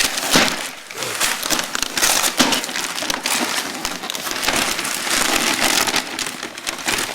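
Gift wrapping paper being torn and crumpled by hand: a steady run of crackling rips.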